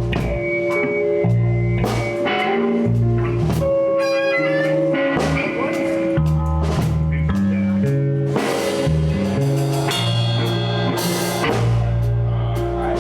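Live blues band playing an instrumental passage: electric guitar over a walking bass line and a drum kit keeping a steady beat.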